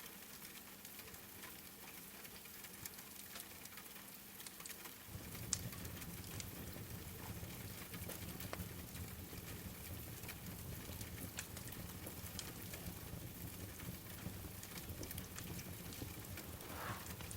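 Rain falling steadily with a wood fire crackling, scattered small pops over the hiss and one sharp pop about five and a half seconds in. A low rumble comes in suddenly about five seconds in and holds.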